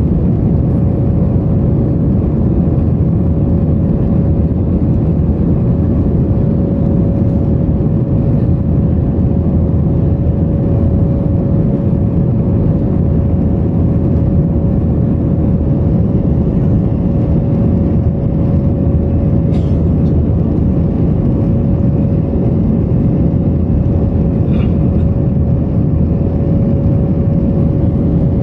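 Airliner cabin noise during the climb after takeoff: a steady roar of engines and airflow with a steady whine held on one note.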